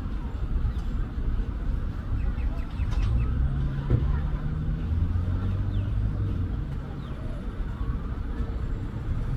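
Steady low rumble of road traffic, with a vehicle's engine hum rising out of it for a few seconds in the middle. Faint short bird calls come through a few times.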